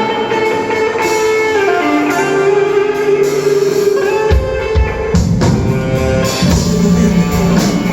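Live band playing an instrumental passage with no singing: a guitar plays held melody notes, and the fuller low end of the band comes in about halfway through.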